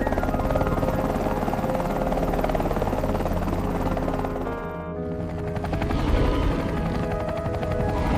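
Rapid chopping of helicopter rotors, a steady fast pulsing, over dramatic background music with sustained low notes; the sound changes about five seconds in.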